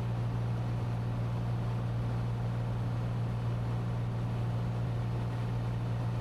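Cessna 182T's six-cylinder piston engine and propeller droning steadily in cruise, heard inside the cabin as a constant low hum with an even hiss over it.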